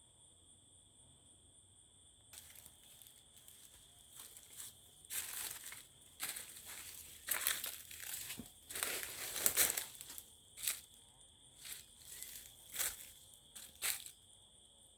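Irregular crinkling and rustling noises in uneven bursts, loudest in the middle, over a steady high-pitched insect chorus.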